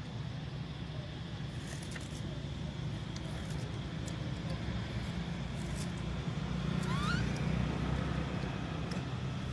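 Steady low rumble like a motor vehicle's engine, swelling for a couple of seconds past the middle, with a few faint clicks and one short rising squeak about seven seconds in.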